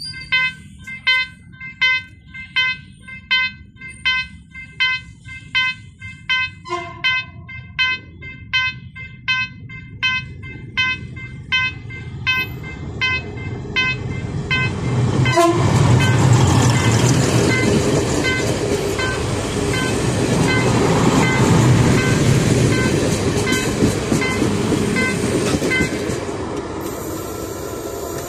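Level-crossing warning bell ringing about twice a second, with a short train horn blast about seven seconds in. From about fourteen seconds a passenger train passes over the crossing, its loud rumble and wheel clatter swelling and then easing off near the end, with the bell still ringing under it.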